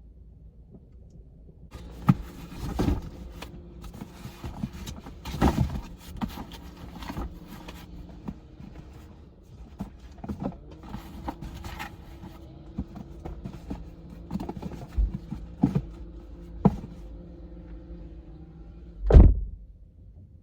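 A series of knocks and thumps from handling things in and around a car, the loudest thump near the end, over a faint steady hum.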